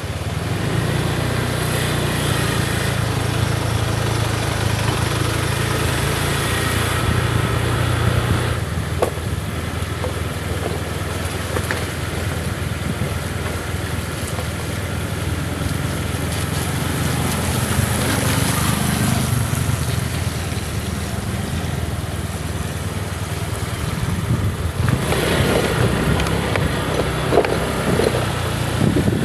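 Motorcycle engine running steadily while riding, a constant low hum with road and wind noise over it.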